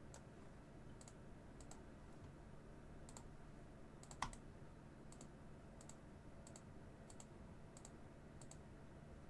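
Faint, sharp clicks of a computer mouse, roughly one a second and some in quick pairs, with a louder click about four seconds in, over near-silent room tone.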